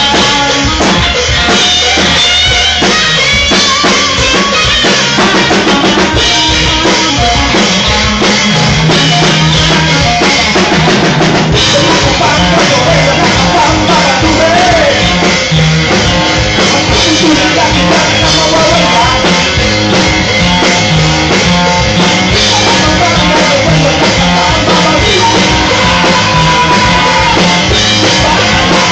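Rock band playing loudly, with a drum kit and guitar, and a melody line that bends in pitch from about halfway through.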